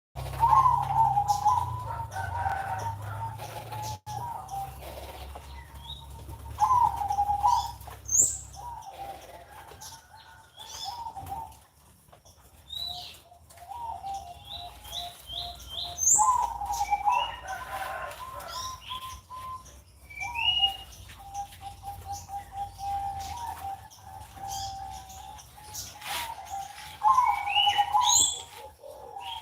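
Caged zebra doves (perkutut) singing their cooing song, loud phrases with rapid trilled notes recurring every several seconds, among higher chirps from other small birds.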